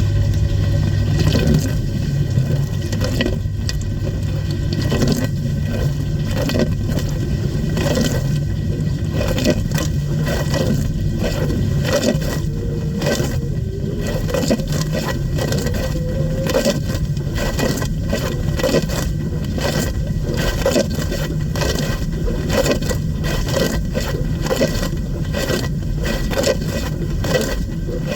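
Dishwasher running its wash cycle: water spraying and splashing against the racks and dishes, a dense irregular clatter over a steady low pump hum.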